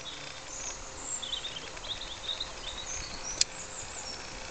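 Small birds chirping over open-air background noise, with a faint steady hum under it and one sharp click a little over three seconds in.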